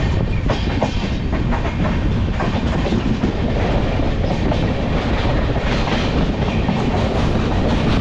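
Express passenger train coaches running at speed, heard from the coach doorway: a steady rumble with the wheels clicking over rail joints, the clicks coming thickest in the first few seconds.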